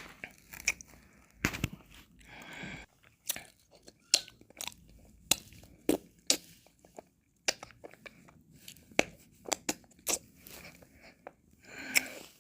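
Close-miked mouth sounds of eating and licking ice cream: irregular wet smacks and clicks of lips and tongue, a dozen or more, with a few longer wet, noisy stretches between them.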